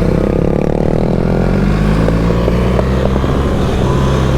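BMW GS adventure motorcycle engine pulling hard on a track, its pitch rising over the first second or so as it accelerates, then holding a steady note under load.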